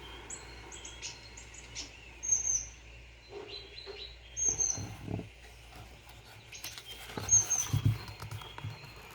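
Birds chirping on and off in short, high, downward-bending chirps, with a couple of soft low thumps.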